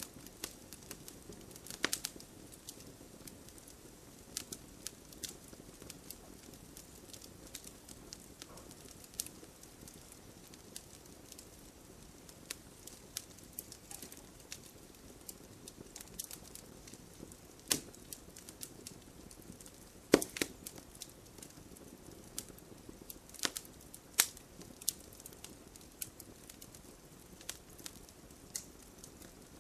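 Wood fire burning in a fireplace: a low steady hiss with irregular sharp crackles and pops, a few louder snaps scattered through, the loudest about two-thirds of the way in.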